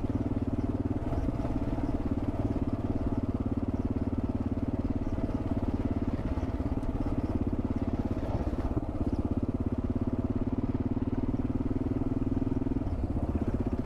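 650 cc single-cylinder dual-sport motorcycle engine running steadily under way, its note easing briefly about two-thirds of the way through.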